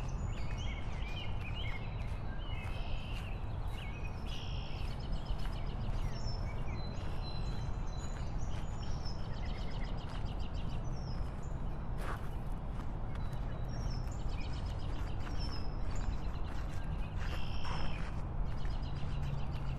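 Birds chirping and calling in quick repeated notes over a steady low rumble, with one sharp click about midway.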